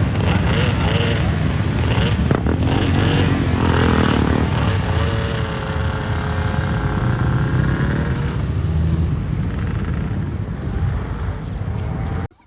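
A vehicle on the move: steady engine and road noise with a strong low rumble, cutting off abruptly near the end.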